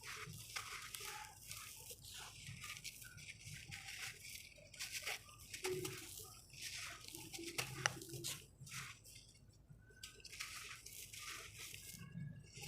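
Dry red sand crumbling and crunching in irregular crackles and rustles, with a sharper crack a little before the eighth second.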